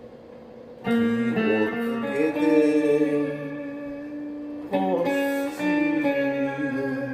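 Guitar music: a chord is struck about a second in and rings on, and another chord is struck near five seconds in.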